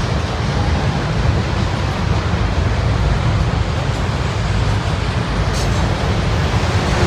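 Freight train of auto rack cars rolling past, a steady loud rumble of wheels on rail.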